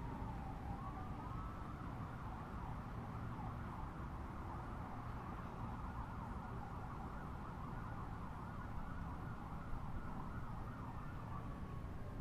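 Emergency-vehicle siren: a slow wail turns about a second in into a fast up-and-down yelp that keeps going, over a steady low rumble.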